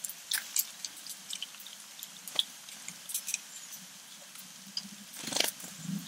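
Small backyard birds giving short, scattered high chirps and clicks, with a louder half-second noise about five seconds in.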